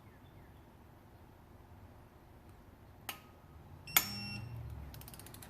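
Click-type torque wrench tightening an engine bolt. A light click comes about three seconds in, then a sharp metallic click with a brief ring about a second later as the wrench breaks at its set torque. A quick run of ratchet ticks follows near the end.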